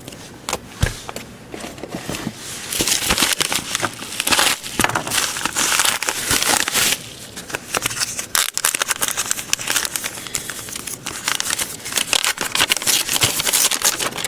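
Mail packaging crinkling and crackling as it is handled and opened, with many small irregular clicks.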